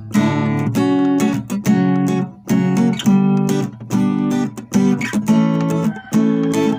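Acoustic guitar strung with D'Addario strings, strummed in a steady rhythm of about two chord strokes a second.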